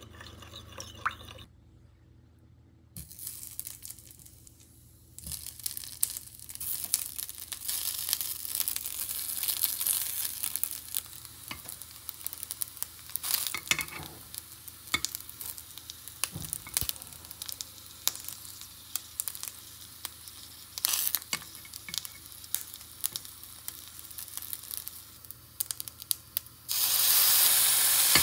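A spoon stirs sauce in a ceramic bowl with a few clinks. Then rice balls sizzle as they pan-fry in a square egg-roll pan, with sharp clicks of metal tongs against the pan as they are turned. Near the end a sudden, much louder steady hiss rises as sauce is spooned onto the hot pan.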